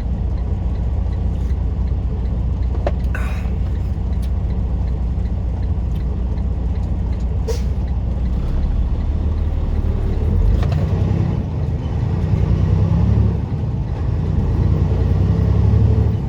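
Semi-truck diesel engine running, heard from inside the cab, a steady low rumble whose note changes and grows louder about ten seconds in and again near the end as the truck pulls through gears. The truck's transmission is in need of repair and the driver finds its gears sound rough.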